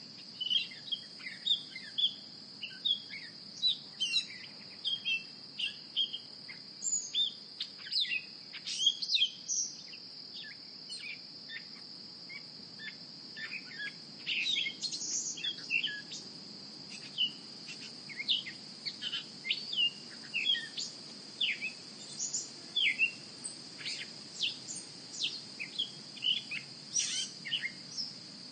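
Many short bird chirps and calls, coming quickly one after another, over a steady high-pitched insect drone.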